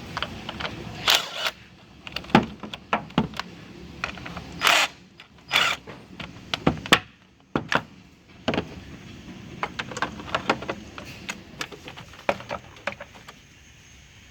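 A string of irregular clicks, knocks and metallic clinks, a few of them ringing briefly, from metal objects being handled at the car.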